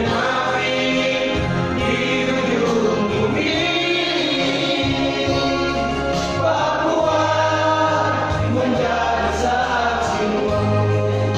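Small vocal group singing a gospel song in harmony over a steady low accompaniment.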